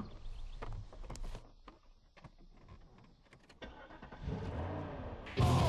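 A few small clicks and knocks, then a car engine starts about four seconds in and runs with a low, steady rumble. Rock guitar music comes in loudly near the end.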